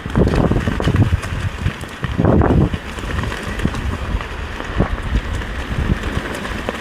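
Mountain bike riding down a dirt trail: wind rushing over the microphone, with frequent knocks and rattles from the bike over the rough ground, loudest briefly at about two seconds in.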